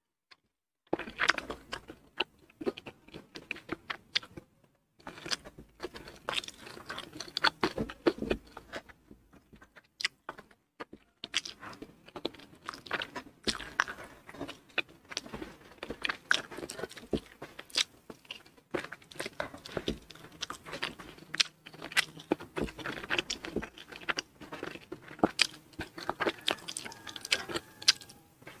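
Close-miked chewing and crunching of food, starting about a second in: dense, irregular sharp crunches and mouth clicks.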